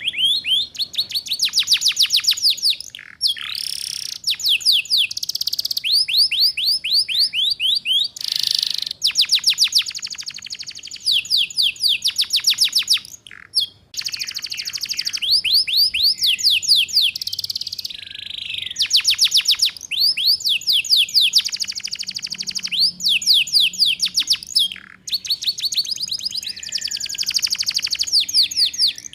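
Domestic canary singing in the 'ngeriwik' style: long rolling trills of quick, repeated high notes, each sliding downward, in phrases broken by short pauses every couple of seconds.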